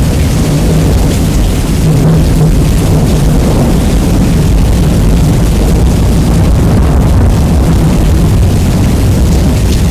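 Rain-and-thunder audio, heavily bass-boosted and overdriven, as one steady, loud, distorted low rumble with the hiss of rain on top.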